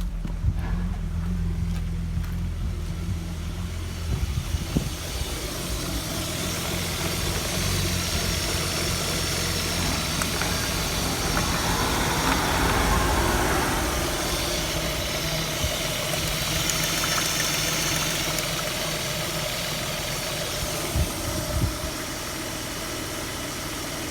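Opel X30XE 3.0-litre V6 petrol engine running at idle. It swells for a few seconds about halfway through before settling back, with a few short knocks in between.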